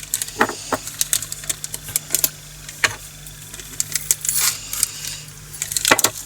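Tiny resin diamond-painting drills clicking and rattling as they are poured and shaken into a plastic storage container, in irregular scattered clicks that thicken near the start and again near the end.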